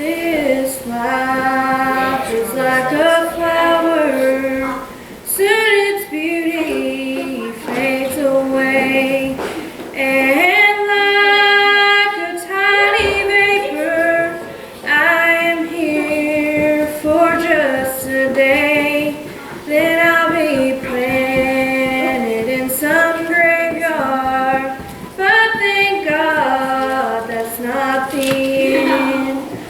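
A woman singing a gospel song solo, holding long sustained notes in phrases with short breaths between them.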